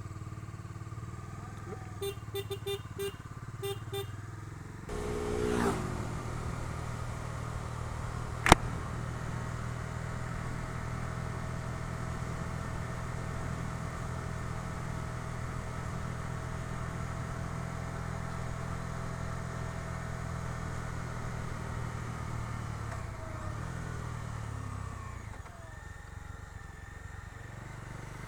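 Bajaj Dominar 250's single-cylinder engine carrying rider and pillion. It runs low at first under a string of short beeps, revs up about five seconds in as the bike pulls away, and then runs steadily while cruising. There is one sharp click a few seconds later, and the engine eases off near the end.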